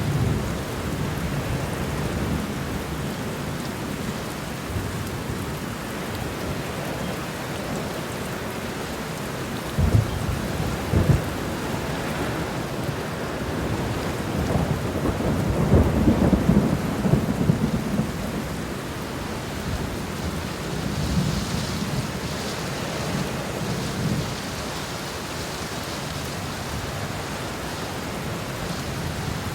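Steady rain falling, with thunder rumbling in slow swells that are loudest a little past halfway, and two sharp knocks about ten seconds in.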